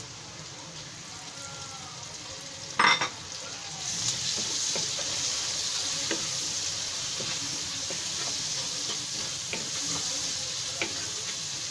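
Shrimp frying in hot oil with browned onions and ground spices in a wok, sizzling as a wooden spatula stirs and scrapes them, with small ticks of the spatula against the pan. A sharp knock comes a little under three seconds in, and the sizzle gets louder about a second later.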